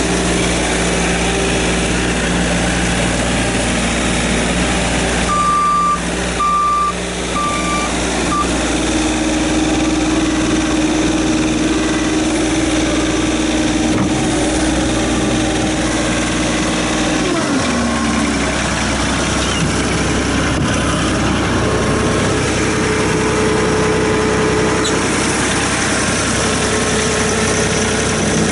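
Bobcat S450 skid steer's diesel engine running steadily, with four short high beeps about a quarter of the way in. About two-thirds of the way through the engine speed drops and it settles into a lower, steady run.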